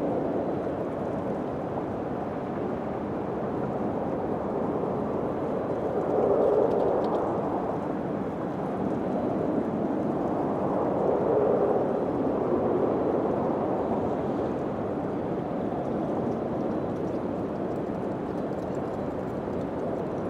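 Wind blowing steadily, swelling in two gusts partway through.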